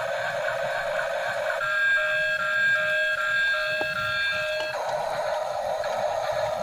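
Electronic sound effects from a battery-powered Choo Choo Charles spider-train toy, played through its small speaker. A rough hissing noise gives way about a second and a half in to some three seconds of steady alarm-like beeping tones, and the noise then returns.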